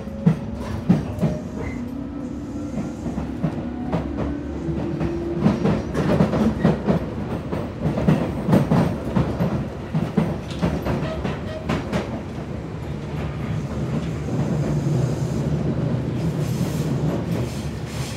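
Tobu 8000 series electric train heard from inside the car while running. A motor whine rises slowly in pitch over the first few seconds, then the wheels clatter and knock repeatedly over the track joints for several seconds before settling into steadier running noise.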